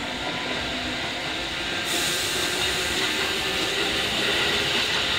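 Electric train at a station platform: a steady running noise, with a hiss that steps up about two seconds in.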